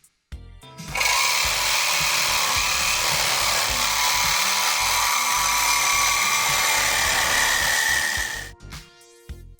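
A power tool running steadily for about seven seconds, starting about a second in and stopping near the end, over background music.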